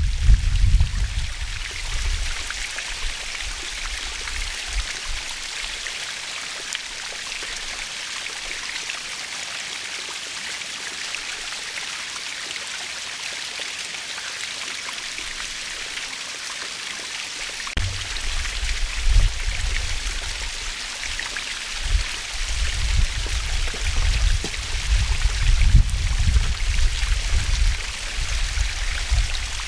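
Waterfall: a steady, even rush of falling water. A low, gusty rumble comes and goes in the first second and again from a little past halfway.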